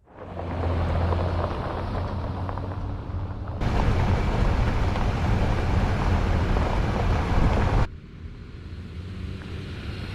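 A vehicle driving: a steady engine hum and road noise. It jumps in level twice, sharply, as if cut between clips.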